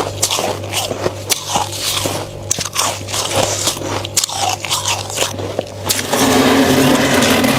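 Close-miked biting and crunching of flaky freezer frost: many sharp, crisp crunches over a steady low hum, turning into a louder, continuous crunch about six seconds in.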